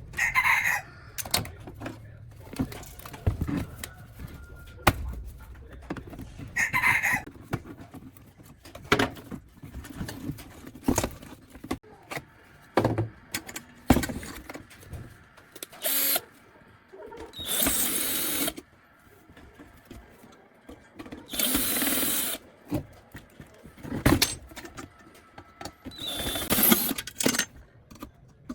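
Handling and tool noises: scattered clicks, knocks and taps, with several short bursts of a power tool running, each a second or so long, in the second half.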